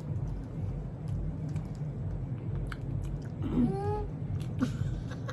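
People chewing and biting snack food, with small irregular crunching clicks.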